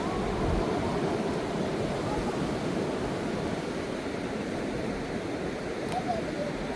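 Sea surf washing onto a sandy beach: a steady, dense rush of breaking-wave noise.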